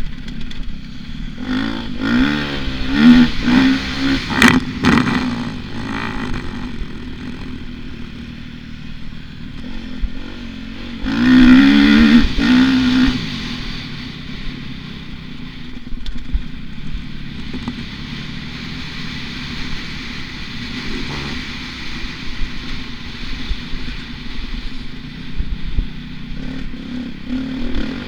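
Motocross bike engine revving up and falling back in surges as it is ridden round the track, loudest about two to five seconds in and again about eleven to thirteen seconds in, with a few clattering knocks.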